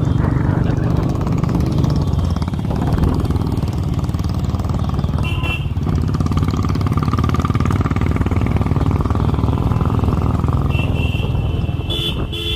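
Motorcycle engine running steadily on the move, with short high-pitched tones around five seconds in and again near the end.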